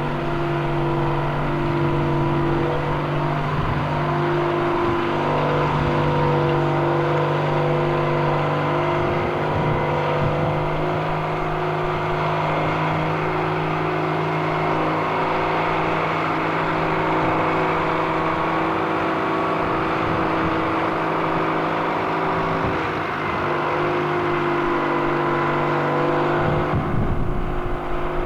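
An engine running steadily at an even pitch, with no clear revving.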